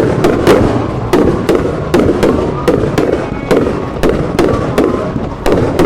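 A firework display in full barrage: a rapid, unbroken run of loud bangs, about three or four a second, over a constant crackle.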